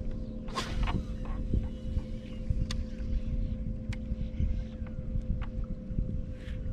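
Steady hum of a boat's motor under a low wind rumble on the microphone, with a few sharp clicks and a short hiss about half a second in.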